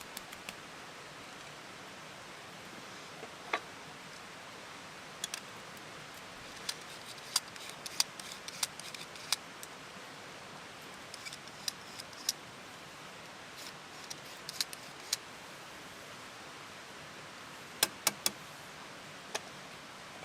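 Irregular sharp clicks and small ticks over a steady low hiss, with a close pair of louder clicks near the end.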